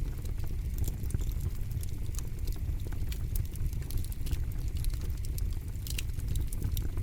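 Campfire crackling: irregular sharp pops and snaps from the burning wood, one louder pop about six seconds in, over a steady low rumble.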